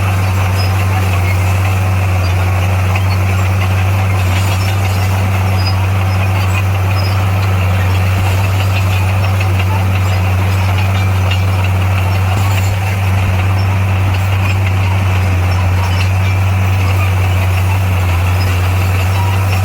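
Heavy diesel engine of earthmoving equipment running steadily with a deep, constant hum.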